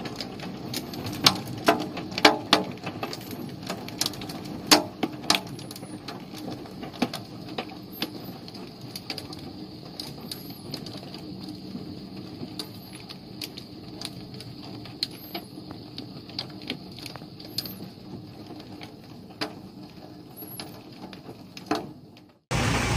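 Hailstones striking hard surfaces in irregular sharp knocks, frequent at first and thinning out, over a steady hiss of the storm, with faint bird chirps. Near the end it cuts off abruptly and a loud steady noise starts.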